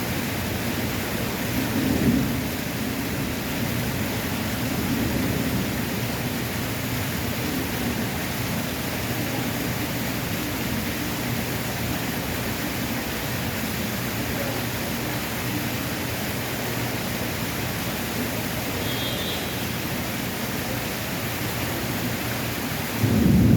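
Heavy rain pouring steadily, an even dense hiss with a low rumble underneath. The rumble swells briefly about two seconds in and grows sharply louder near the end.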